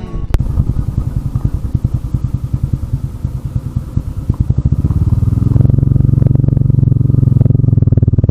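Motorcycle engine running with an even exhaust beat. It picks up speed and gets louder about five seconds in.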